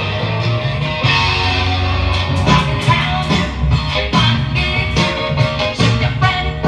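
Guitar-led rock music played back on a vintage Isabela 5 vitrola record player.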